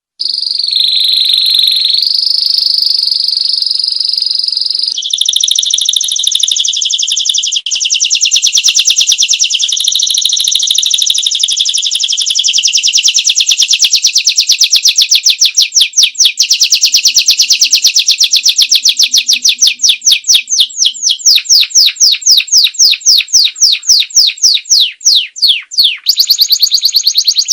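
Domestic canary singing: a few seconds of long high whistled notes, then a continuous rapid trill that gradually slows into distinct, quickly repeated chirps.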